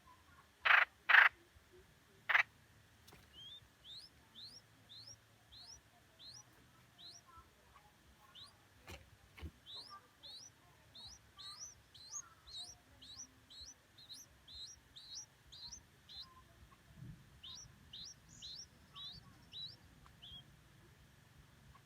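Baby birds chirping: a long series of short, high, rising chirps, about two a second. Before them come three loud, sharp sounds in the first few seconds.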